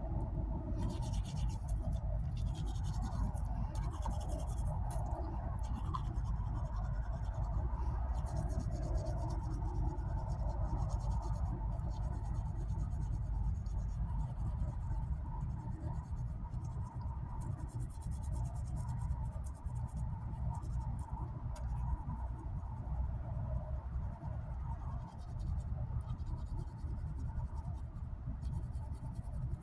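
Toothbrush scrubbing teeth: a scratchy back-and-forth brushing that comes in runs of quick strokes, over a steady low rumble.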